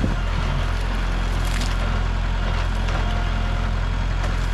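Tractor engine running steadily with a low, even engine note, with a few faint knocks over it.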